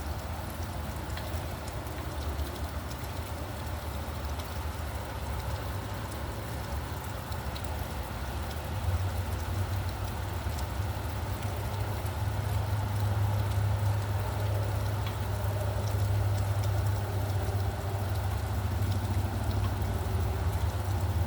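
Steady rain with the low rumble of a vehicle engine from traffic, which grows louder about nine seconds in and holds.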